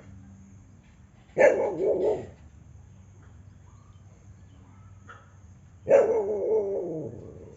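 A dog barking: two drawn-out barks, one about a second and a half in and one near the end, each starting sharply and trailing off with a wavering pitch.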